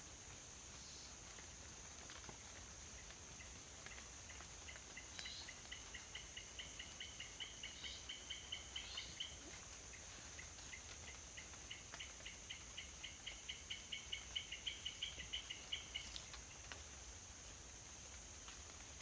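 Rainforest wildlife after rain: a steady high-pitched insect drone throughout. Over it, some animal gives a rhythmic pulsed call of about five notes a second in two bouts, each growing louder before it breaks off.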